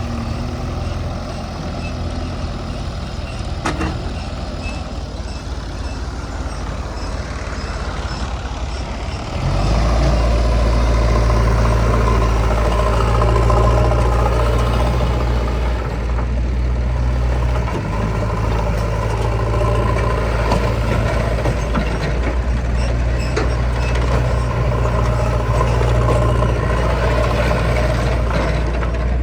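Diesel engine of a JCB 3DX backhoe loader running, then revving up sharply about nine seconds in and holding at high revs while it works.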